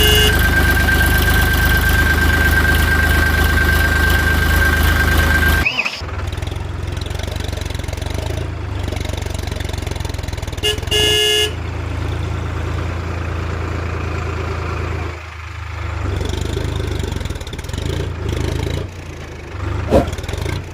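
Toy tractor sound: a steady low engine-like hum runs throughout, with a high steady whine that stops abruptly about six seconds in. A horn toots briefly about eleven seconds in.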